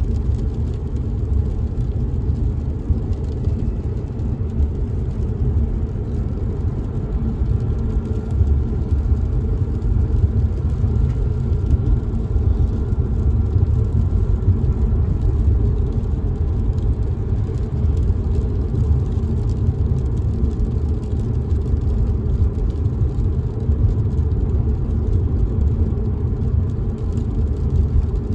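Steady low rumble of a car driving, heard from inside the cabin, with faint raindrops ticking on the windows.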